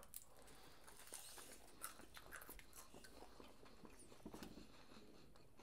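Faint biting and chewing of a crunchy fried sandwich, with a few soft crackles scattered through.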